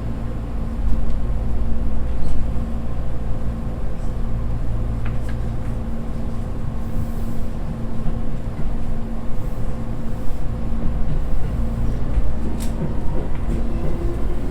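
Tobu Skytree Line electric commuter train running on the track, heard from inside the front car: a steady low rumble with a constant hum and a few faint clicks.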